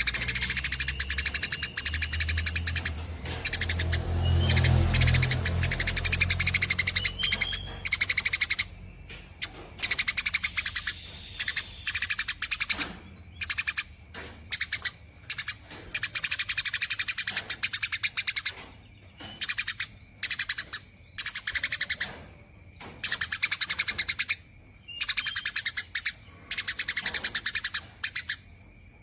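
Eurasian tree sparrow (burung gereja) singing its long, rapid chattering trill in repeated bouts of a second or two, with short pauses between.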